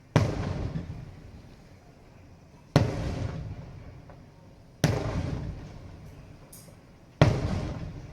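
Aerial fireworks shells bursting: four deep booms a few seconds apart, each rumbling and echoing away over a second or two.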